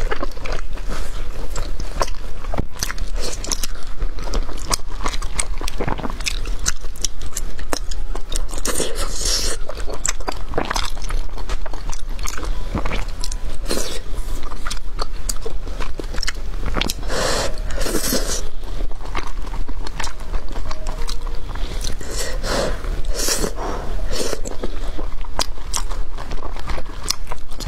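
Close-miked mouth sounds of eating thick, chewy sweet-potato starch noodles (fenhaozi): wet chewing with many small irregular clicks, and noodles being sucked in.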